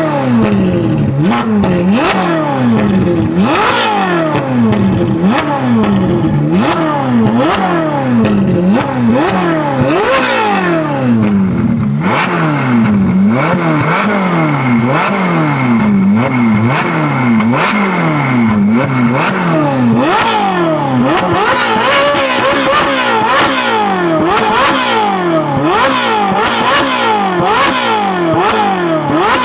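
Ferrari 458's 4.5-litre naturally aspirated V8, fitted with a titanium valved rear exhaust section and free-flow (catless) bypass front pipes, being blipped repeatedly while stationary: quick rev rises that fall straight back, about one a second. A steady high tone sounds for several seconds in the middle.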